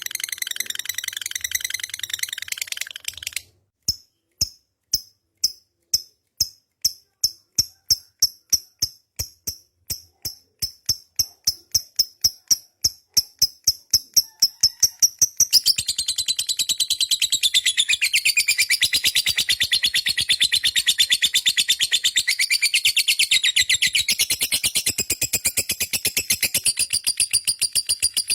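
Lovebird's long 'ngekek' trill. A burst of high chatter breaks off briefly, then comes a string of separate sharp chips that speed up over about ten seconds. The chips run together into a continuous rapid chattering trill that holds for the last dozen seconds.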